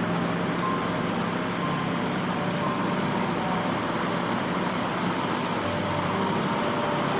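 Steady road and engine noise of a moving car, an even rushing hiss over a low engine hum, with no crash or impact.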